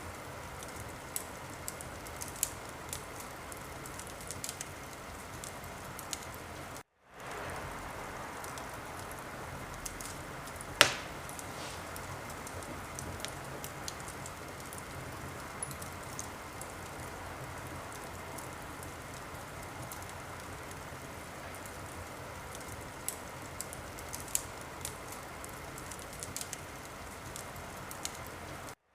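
Logs burning in a fireplace, crackling: a steady hiss with scattered sharp snaps and one loud pop about eleven seconds in. The sound cuts out for a moment about seven seconds in and again at the very end.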